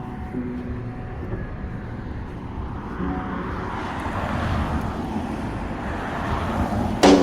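Road traffic noise: a vehicle passes, its sound swelling about four to five seconds in and easing off. Music starts just before the end.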